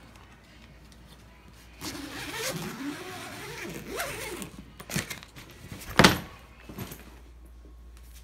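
A packed suitcase being handled and pushed shut: rustling and shuffling, with one sharp loud knock about six seconds in.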